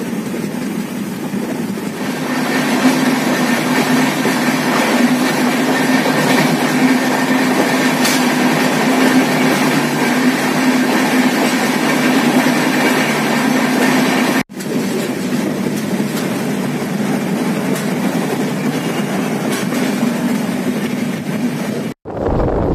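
Train running along the track at speed, heard from an open carriage window: a steady rumble and rattle of wheels on rails with occasional clicks. It grows louder about two seconds in as a freight train's wagons pass close by on the next track. It breaks off for a moment twice, and near the end turns into wind buffeting the microphone.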